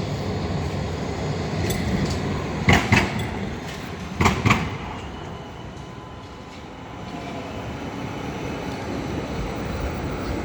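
A Melbourne tram passing with a steady low rumble, its wheels clacking over the rails in two pairs of sharp knocks about a second and a half apart. Partway through the rumble eases off, then swells again.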